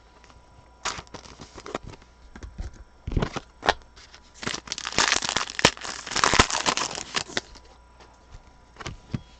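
Foil trading-card pack being torn open and its wrapper crinkled, with sharp clicks and snaps of cards being handled; the crinkling is densest and loudest in the middle.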